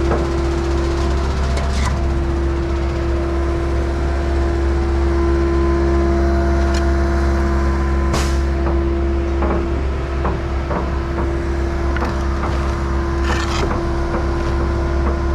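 Skid-steer-powered concrete pump and its diesel engine running steadily, with a constant low rumble and a steady hum, and a few short knocks from the equipment.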